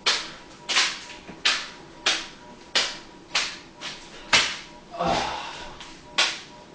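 A hand repeatedly smacking a small pouch of fruit snacks up into the air, a sharp slap about every two-thirds of a second, around ten in all.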